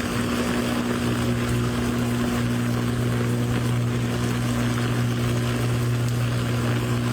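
An engine running steadily at a constant pitch, with a hiss over it.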